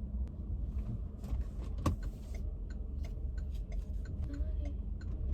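Low, steady rumble of a car's interior on the move, with scattered light clicks and one sharper click about two seconds in.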